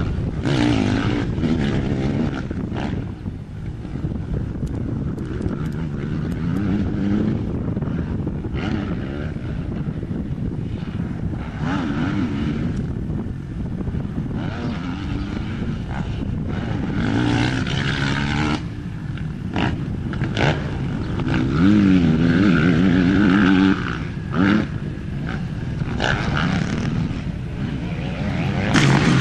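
Motocross bike engines revving hard along a dirt straight, pitch repeatedly climbing and dropping as the riders accelerate and shift. The loudest passes come about two-thirds of the way through.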